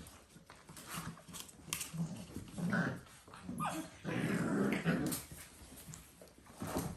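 Dalmatian puppies growling in rough play, in short bursts, with a louder, longer growl about four seconds in.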